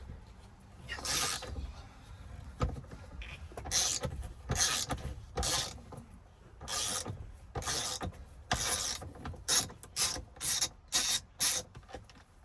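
Socket ratchet turning out a truck's 21 mm steering wheel bolt, its pawl clicking in repeated rasping back-strokes that come quicker toward the end as the bolt loosens.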